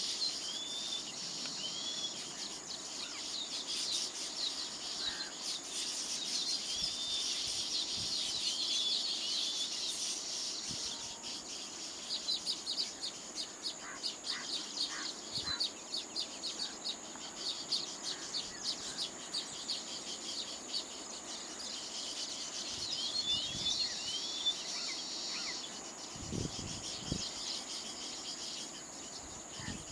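A colony of baya weavers chattering and chirping continuously, a dense run of quick high notes and short curved chirps, over a steady high insect drone.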